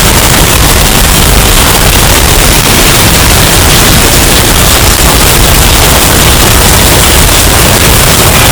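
Hurricane wind sound effect, heavily bass boosted and distorted: a steady, very loud wall of noise.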